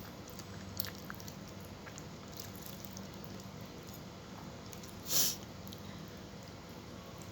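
Close-up eating sounds: soft chewing with small mouth clicks, over a steady low hum, and one louder, brief noisy sound about five seconds in.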